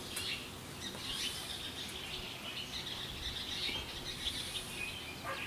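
Small songbirds chirping and singing, many short high calls overlapping, over a faint steady background hiss.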